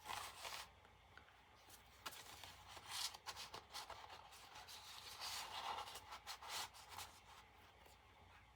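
Faint rustling and rubbing of paper and card as the pages and pockets of a handmade journal are handled, with a few soft taps; the handling dies away near the end.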